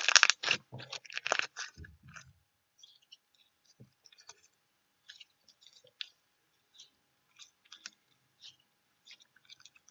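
Loud, dense crunching close to the microphone for about the first two seconds, then only faint, scattered small clicks and ticks.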